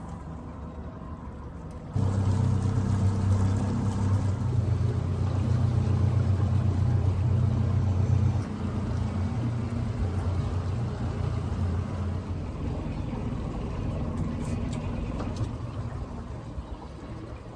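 A boat's motor running under way at trolling pace as a steady low hum. It gets louder about two seconds in and eases back somewhat a few seconds later.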